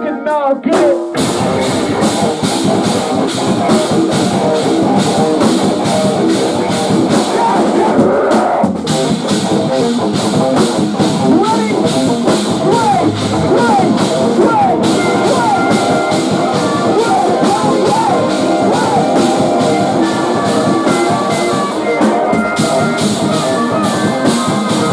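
Post-hardcore rock band playing live: distorted electric guitars over a fast, heavy drum kit, loud and dense. The music drops out for a moment right at the start, then pounds on.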